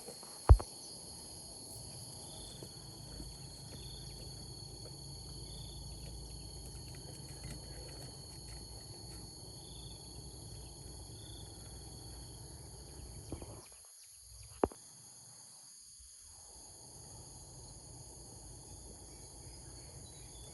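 Insects trilling steadily in several high-pitched tones, with a short chirp repeating now and then. A sharp click sounds about half a second in and another about fourteen seconds in.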